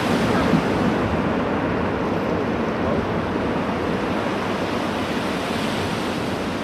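Steady rushing noise of wind and churning sea water, slowly easing off.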